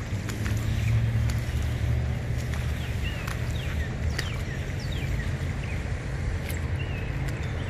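Wild birds calling in flooded woodland: short whistles that fall in pitch and a small curling phrase heard twice, over a steady low rumble.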